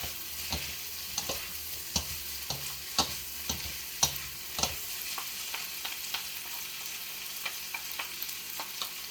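Ginger, garlic, onion and peppers sizzling in hot oil in an electric wok, with a steady hiss and the clack of a utensil stirring and flipping them, the clacks coming often in the first half and more sparsely later.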